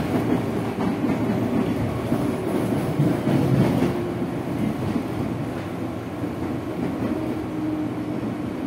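Running noise inside a JR 205-series electric commuter train's motor car at speed: a steady rumble of wheels on rail with a low motor hum.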